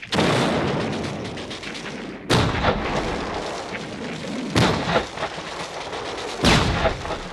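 Four heavy gun blasts, artillery-like, each about two seconds after the last. Each sets off a long rolling rumble that fades away.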